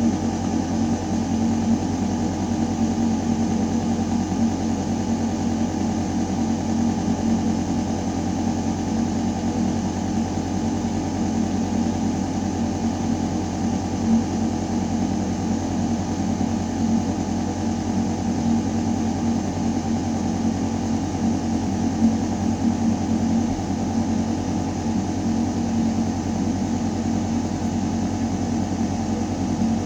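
Building ventilation system running steadily: a constant low mechanical hum with air rushing through ductwork.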